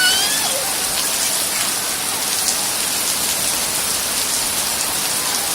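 Steady rain falling, a dense, even hiss of drops striking the ground and surfaces.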